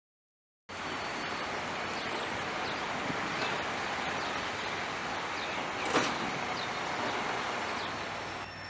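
Steady outdoor rushing noise with faint short bird-like chirps and one sharp click about five seconds in; a low steady hum comes in near the end.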